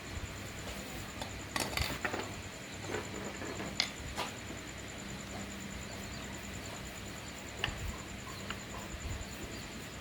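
Scattered light metallic clicks and taps from tools and parts being handled, a cluster about one and a half to two seconds in and single ones near four and nearly eight seconds, over a steady low hum.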